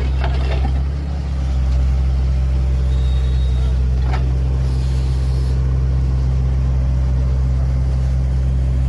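Truck engine running steadily at low revs, a constant low drone with a short dip about a second in and a single click about four seconds in.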